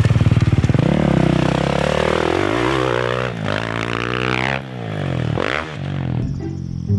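Dirt bike engine revving hard, its pitch rising and falling again and again as the throttle is worked, cutting off suddenly about six seconds in.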